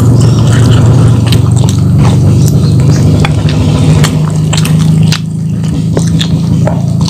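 Close-up wet chewing and mouth smacks of someone eating battered fried chicken, with many short sharp clicks and squishes, over a steady low hum that is the loudest sound throughout. The hum drops a little about five seconds in.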